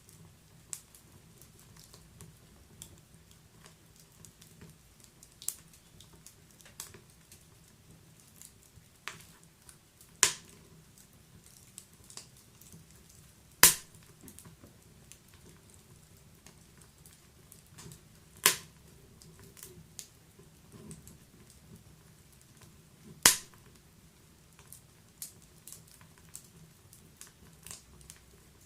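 Wood fire in a fireplace crackling, with irregular small snaps and four louder sharp pops spread through, over a faint low rumble.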